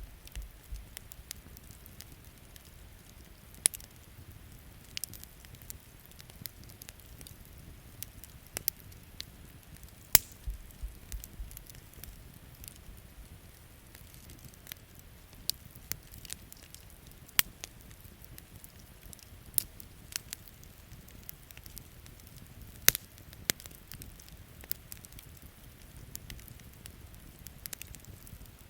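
Wood campfire crackling, with irregular sharp pops over a faint steady hiss; the loudest pops come about ten seconds in and again near 23 seconds.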